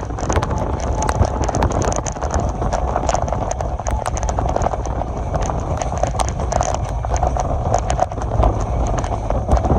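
Passenger train in motion: a steady low rumble of running gear with irregular clicking and clatter throughout.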